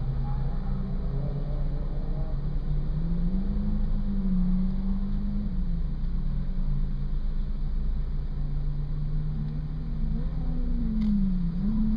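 Car engine idling while stationary, heard from inside the cabin, its note rising and falling back twice, about three seconds in and again near the end.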